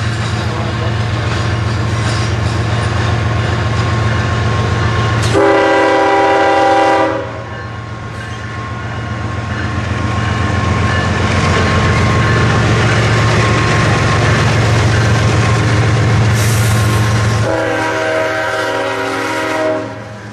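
Diesel freight locomotive passing close, its engine running steadily with wheels clicking over the rail joints, and two blasts of its air horn: one about five seconds in lasting under two seconds, the other near the end lasting about two seconds.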